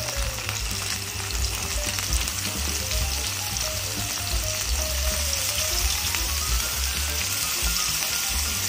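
Carrot sticks frying in hot oil with onion and garlic in a wok: a steady sizzle, with a metal ladle stirring through them.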